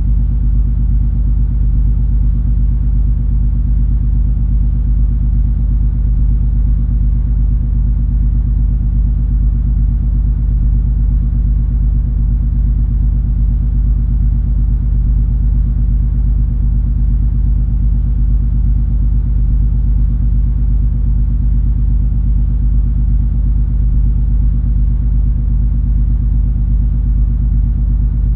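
Steady low rumble and hum of the cruise ferry MS Color Magic underway, a constant drone that does not change.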